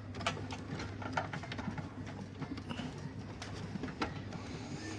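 Scattered light clicks and taps from hands working cables and plastic connectors inside a desktop computer case, over a steady low hum.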